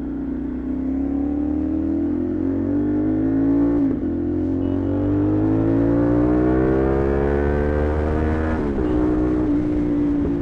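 CFMoto 450SR parallel-twin motorcycle engine through an aftermarket SC-Project exhaust, accelerating under load. The pitch climbs steadily, then drops sharply at an upshift about four seconds in and again at a second upshift near the end, after which it runs fairly steady.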